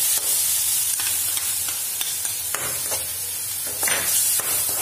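Onion-tomato puree masala sizzling in a kadai as it is roasted, with a steel spoon stirring and scraping it several times over a steady hiss.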